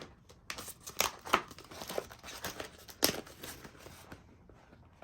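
Cut paper or board being handled on the cutting mat: light crinkling and rustling with a few sharp clicks, the strongest about a second in and about three seconds in.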